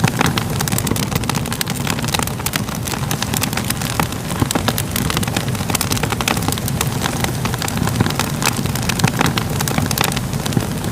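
Fire crackling, with many irregular sharp pops and snaps over a steady low roar.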